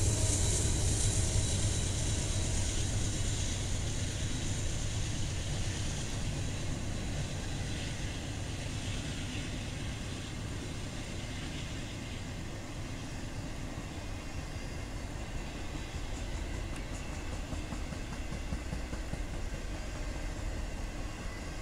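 Double-stack intermodal freight train rolling past at close range: a steady rumble and clatter of railcar wheels on the rails. It is louder at the start and eases off over the first several seconds, then runs on evenly.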